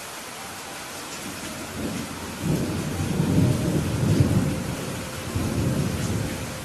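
Steady rain hissing, with a low rumble of thunder that swells about two seconds in, is loudest near the middle and dies away near the end.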